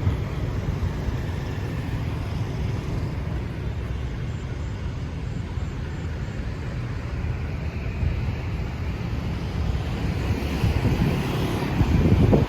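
Steady low rumble of outdoor street ambience: road traffic with wind buffeting the microphone. It grows a little louder over the last two seconds.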